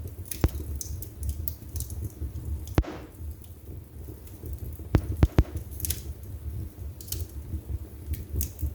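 Wood fire burning in a fireplace: a low steady rumble of flame with continual small crackles. Sharp pops stand out, one about half a second in, one near three seconds, and three in quick succession about five seconds in.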